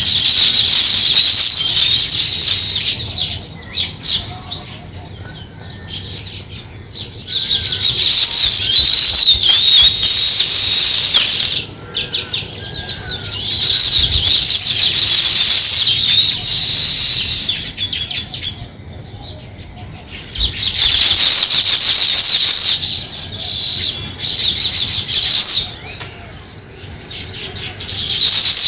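House sparrows chirping in loud, busy bouts of several seconds each, separated by quieter spells.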